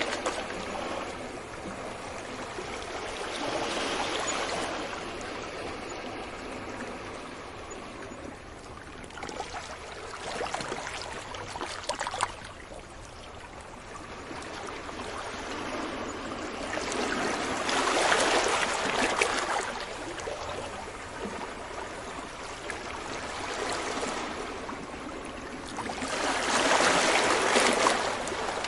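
Sea waves breaking on a beach: a continuous wash of water that swells into louder surges every several seconds, the biggest about two-thirds of the way through and again near the end, with quieter hissing backwash between.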